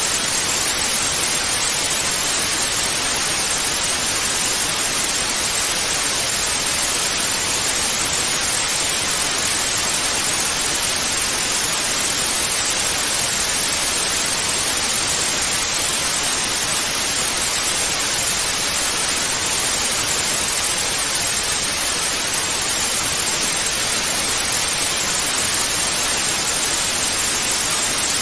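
Analog TV static: steady, unchanging hiss, strongest in the high range.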